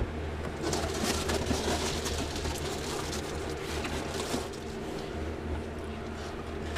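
Reflectix foil-faced bubble insulation rustling and crinkling in irregular bursts as it is handled and pressed into place, over a steady low hum.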